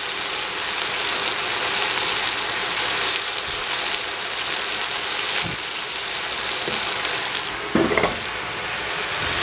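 Bok choy sizzling in a stainless steel pot over a gas flame, a steady frying hiss. About eight seconds in there is a brief louder scrape as the pot is shifted on the burner grate.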